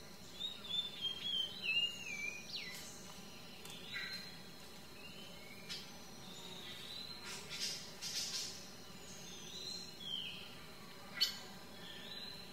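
Birds chirping and calling: a run of short warbling, sliding calls in the first few seconds, more scattered chirps after, and one sharp call near the end, over a steady faint background hiss.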